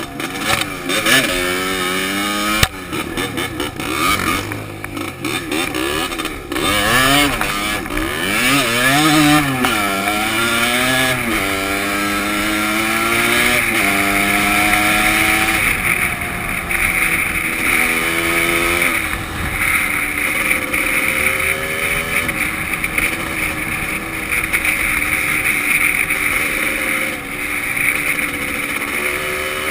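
Dirt bike engine revving up and falling back again and again as the rider works the throttle and gears, then holding a steadier pitch, heard from a helmet-mounted camera.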